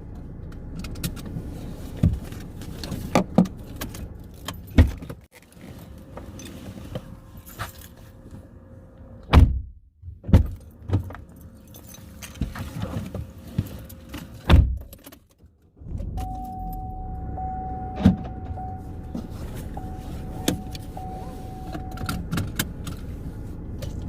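A car's cabin with the engine and air conditioning running, a steady hum. Knocks and clicks with keys jangling, and three heavy thuds a little under halfway through that fit a car door shutting. A high intermittent beeping tone sounds in the last few seconds.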